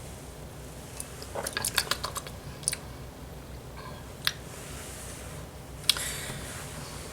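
Small clicks and taps of a drink container being handled while it is sipped: a quick cluster of clicks about a second in, then single clicks spaced out afterwards.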